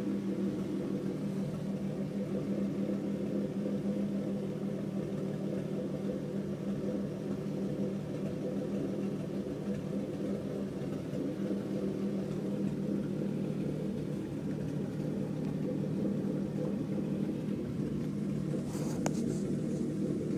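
2013 Ford Mustang's 3.7 L V6 idling steadily on a cold start with an X-pipe and Roush exhaust and a 'Ghost Cam' idle tune, heard from inside the cabin while it warms up. The engine is not yet at full idle.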